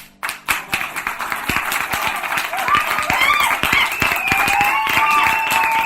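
Large concert crowd applauding and cheering, with dense clapping and shouts or whistles, starting just after the music cuts off.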